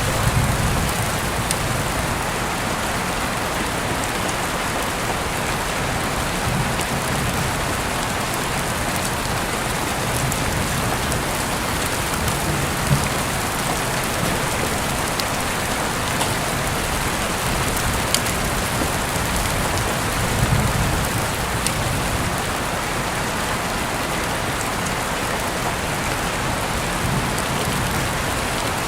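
Heavy rain falling steadily, an even hiss of drops with a few louder single drip hits standing out.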